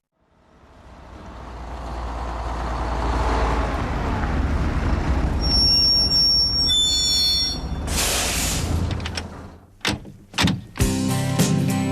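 Scania R420 truck's engine running with a low, steady rumble that fades in, then high squealing tones in the middle and a hiss of the air brakes about eight seconds in, followed by a few knocks.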